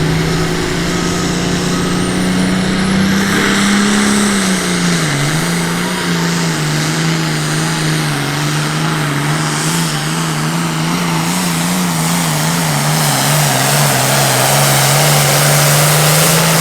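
Super farm pulling tractor's turbocharged diesel engine running hard under load as it drags the sled, with a high turbo whine rising in the first few seconds. The engine note sags about five seconds in and then wavers as the load builds.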